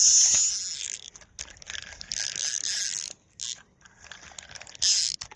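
Fishing reel being cranked, its gears whirring and ratchet clicking in several short spells with brief pauses.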